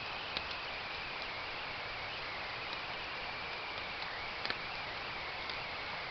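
A steady hiss with a faint wavering whine running through it, broken by a few faint clicks, one of them a quick double click about four and a half seconds in.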